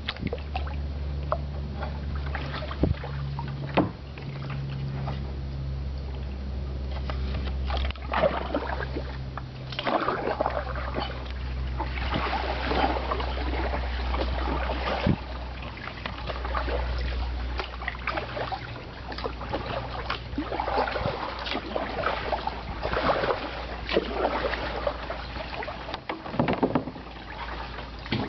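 Kayak paddle strokes: splashes and drips of water off the blades come every two to three seconds, with an occasional knock, over a steady low rumble.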